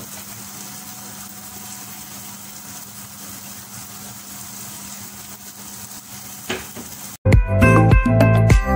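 Chopped onion, tomato and whole spices sizzling steadily in hot olive oil in a pot. About seven seconds in, the sizzle cuts off abruptly and loud background music with a steady beat takes over.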